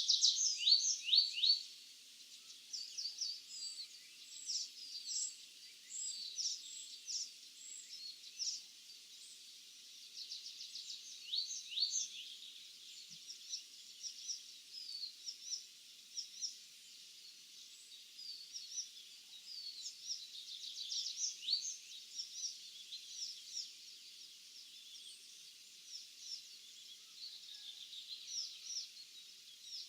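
Several songbirds chirping and singing at once in a continuous morning chorus of short, high notes and trills, loudest in the first couple of seconds.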